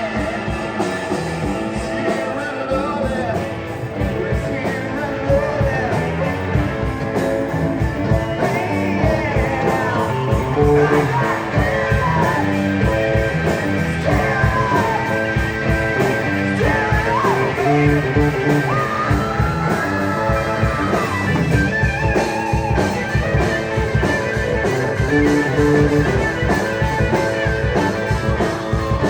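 Live rock band playing loud: electric guitar and drums under a singing voice.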